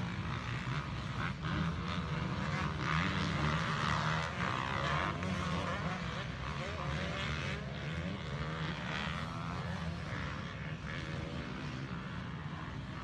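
Motocross bike engines running hard on a race track, several overlapping engine notes rising and falling as the riders rev through the section.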